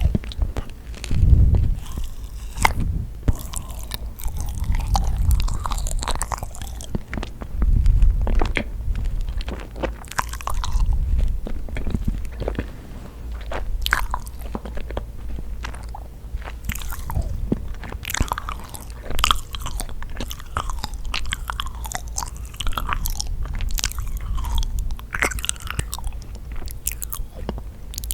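Close-miked chewing and biting of yakgwa, the sticky honey-soaked Korean fried cookie: irregular wet, sticky mouth clicks and small crunches that keep on throughout.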